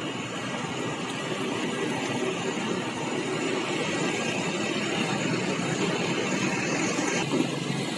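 Large crawler excavator running steadily as it comes down off a truck, its engine and tracks making a continuous mechanical din. A higher-pitched part of the noise cuts off suddenly about seven seconds in.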